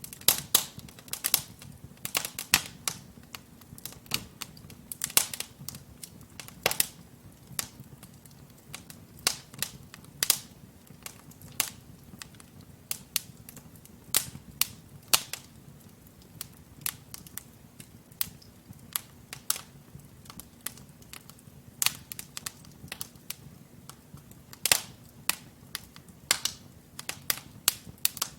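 Wood fire of burning logs crackling in a fireplace: irregular sharp pops and snaps, sometimes in quick clusters, over a faint low rush of the flames.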